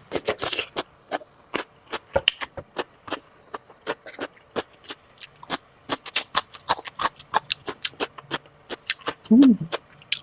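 Close-miked chewing of sausage: a rapid, irregular run of wet mouth clicks and smacks. About nine seconds in comes a brief voiced sound whose pitch rises and falls, the loudest moment.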